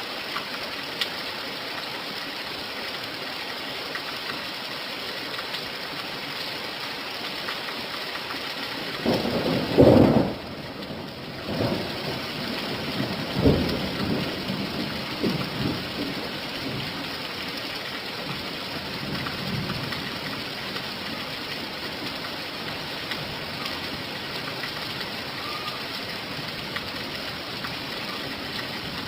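Steady rain falling, with a roll of thunder about nine seconds in that is loudest near ten seconds, followed by several softer rumbles.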